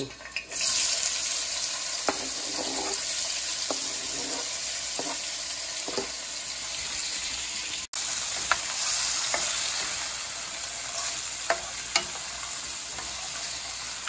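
Diced onions and bell peppers sizzling in hot oil in a nonstick frying pan; the sizzle starts about half a second in as they go into the pan and then holds steady. A black plastic spoon stirring them gives occasional sharp ticks and taps against the pan.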